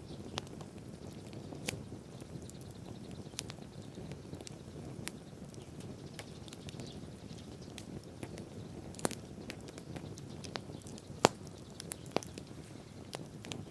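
Wood bonfire burning: a steady low rush of flame with irregular sharp crackles and pops, the loudest pop about eleven seconds in.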